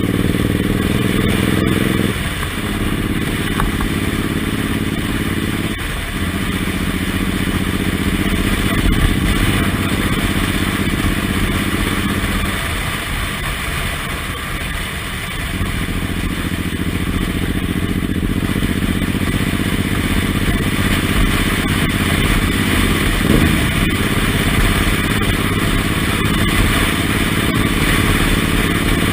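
Suzuki Intruder M1800R's V-twin engine running under way on the road, its pitch climbing and breaking off briefly several times as gears change, with an easing-off lull about halfway through. A steady rush of noise lies under the engine.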